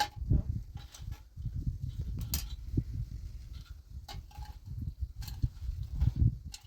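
Goats in a herd, with a few short clicks and faint brief calls over an irregular low rumble.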